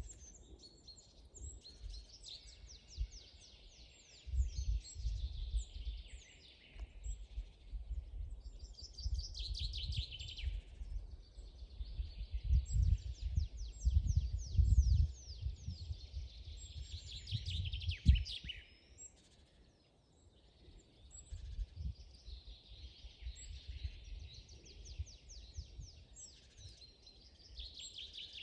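Songbirds singing in a forest, several rapid trills and chirps overlapping throughout. Underneath, an uneven low rumble swells and fades, loudest through the middle.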